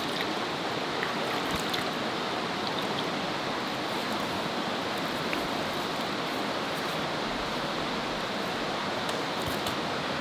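Steady, even rushing noise of outdoor ambience, with a few faint high ticks scattered through it.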